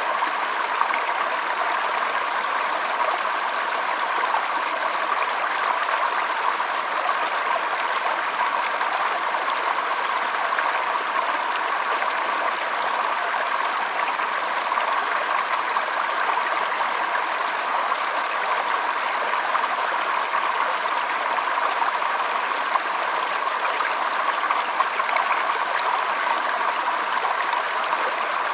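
Stream of water running steadily over rocks, a continuous even rush with light trickling and gurgling.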